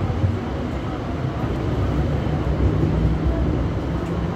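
Hong Kong Light Rail Phase III light rail vehicle running along the track, heard from inside the car: a steady rumble of wheels and running gear with a faint motor hum.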